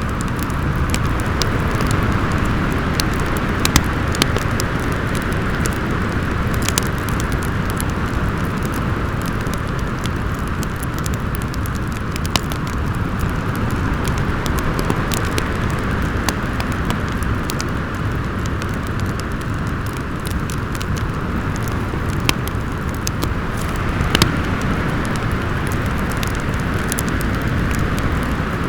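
Steady howling wind with a low rumble, layered with a wood fire crackling in scattered sharp pops.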